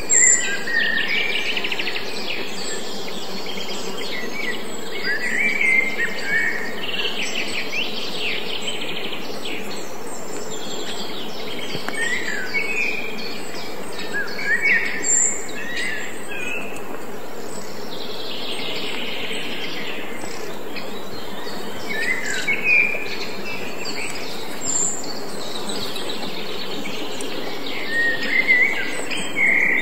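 Birds singing in short chirping phrases every few seconds over a steady hum and hiss.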